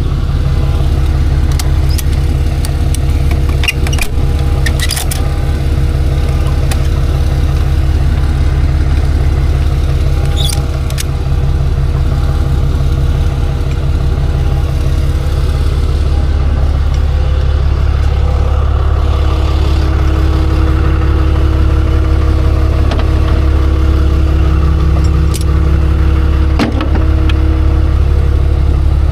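Tow truck's engine running steadily, a loud low drone with a few short clicks and knocks now and then.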